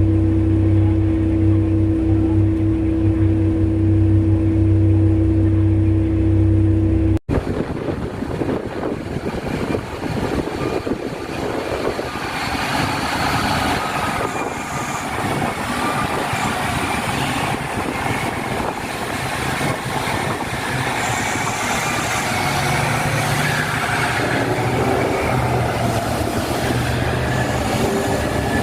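Mining haul truck's big diesel engine running with a steady, even drone. About seven seconds in, the sound cuts abruptly to a rougher, noisier machinery rumble with shifting whines.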